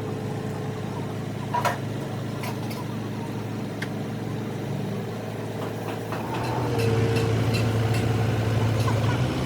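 Rebuilt Mercedes-Benz diesel engine running steadily at idle, with a sharp click about a second and a half in; about six and a half seconds in it gets louder and runs harder.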